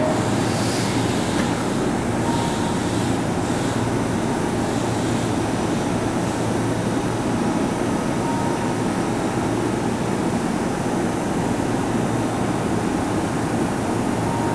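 Keihan 3000 series electric train standing at an underground station platform, giving off a steady low hum and rumble.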